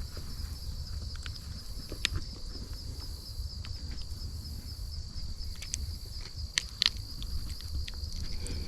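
Steady chorus of crickets trilling, with a few small clicks and knocks scattered through it.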